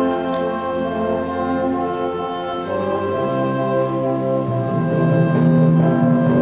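High school concert band playing a slow passage of sustained brass and wind chords that shift every second or two, swelling louder in the second half.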